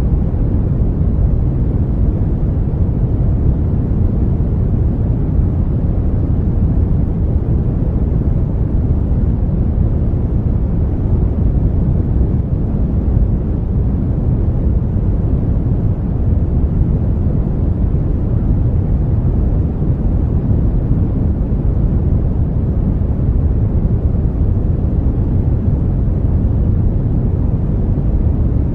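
Brown noise: a steady, even low rumbling hiss with most of its weight in the bass and little treble, unchanging throughout.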